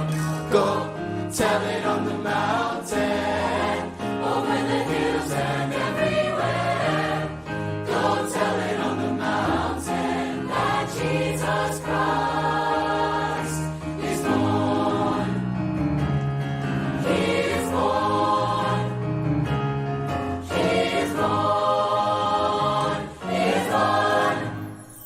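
Student choir singing with musical accompaniment, with sharp percussive hits throughout; the performance breaks off just before the end.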